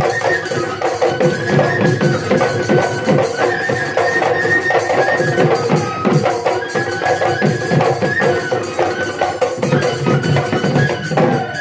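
Bihu husori folk music: dhol drums beaten in a fast, dense rhythm under a high melody line that steps between held notes.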